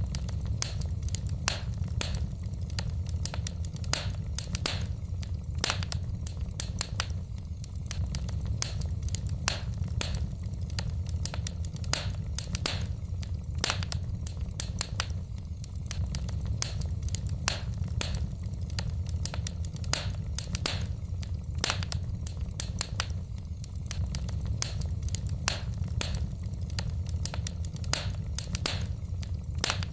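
Wood fire crackling in a fireplace: sharp, irregular pops and snaps of burning logs, several a second, over a steady low rumble.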